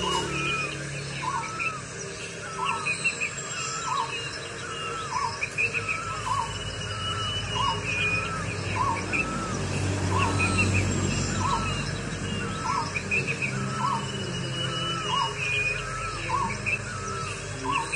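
Birds calling outdoors: a short two-part call repeated steadily about once a second, with higher chirps every few seconds over a low steady background.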